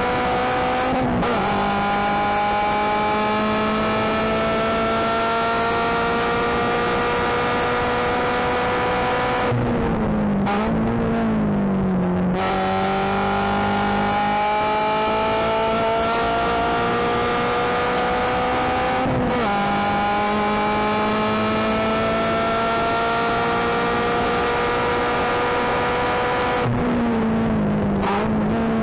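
Subaru BRZ race car's 2.0-litre flat-four engine heard from inside the cabin under hard acceleration, its pitch climbing steadily. The pitch drops sharply with an upshift about a second in and again around nineteen seconds. Twice, around ten seconds in and near the end, the note falls away under braking with brief throttle blips on the downshifts.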